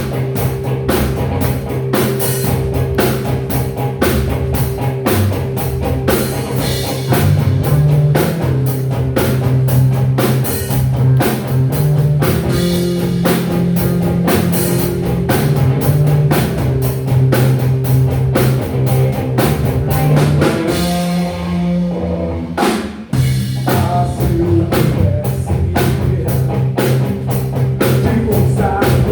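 Live rock band playing: a drum kit beating out a steady rhythm under electric bass and guitar. About three-quarters of the way through, the band briefly drops out before coming back in.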